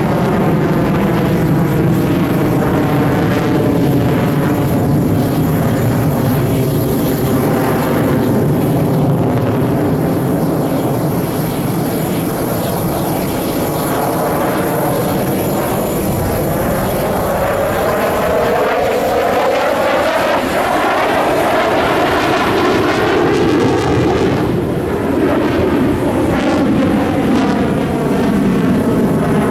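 Jet engines of Su-30SM fighters in a flying display, loud and continuous, with the sound sweeping in pitch about two-thirds of the way through as the jets pass.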